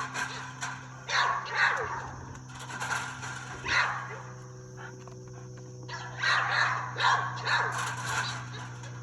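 A dog barking in repeated short bursts, with a lull of about two seconds near the middle.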